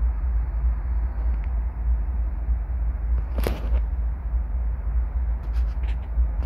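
Freight train rolling past, a deep steady rumble with one sharp clank about halfway through.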